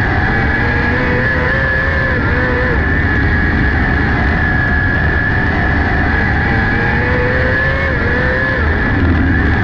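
600cc micro sprint car's motorcycle engine racing at high revs. Its pitch dips and comes back up twice, about three seconds in and again near the end, over a constant rush of noise.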